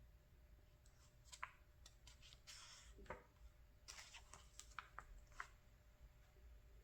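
Faint rustling and crinkling of paper catalog pages being handled and turned, a string of short clicks and swishes from about a second in until about five and a half seconds in.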